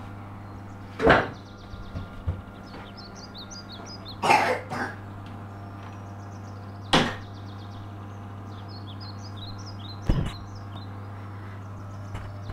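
Steady low hum of an electric oven running while a cake bakes, broken by four sharp knocks or clicks a few seconds apart.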